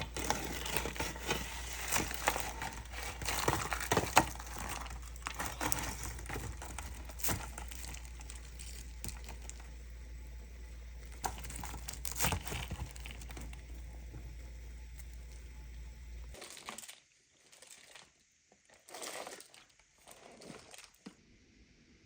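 Crinkling and rustling of paper or packaging with many sharp clicks and knocks, typical of kitchen prep being handled. It stops abruptly about 16 seconds in, leaving only a few faint rustles.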